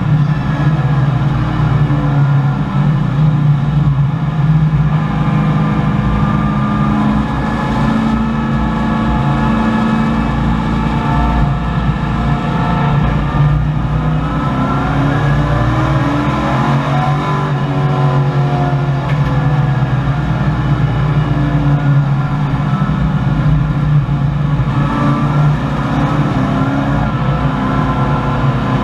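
V8 engine of a 1984 Chevrolet Camaro race car under racing load, heard from inside the cabin. Its pitch rises and falls with throttle and gear changes, dropping about halfway through and then climbing again.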